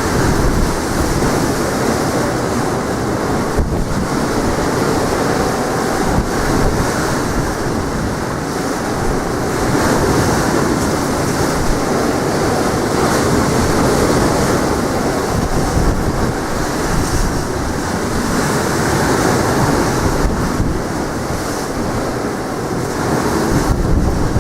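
Sea waves washing onto the shore in strong wind, with wind buffeting the microphone in a low rumble; the level swells and falls slowly.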